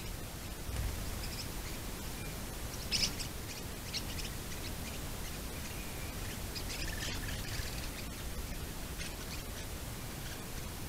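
Small birds chirping: short, high calls scattered through, the loudest cluster about three seconds in, over the steady low hiss of a trail camera's microphone.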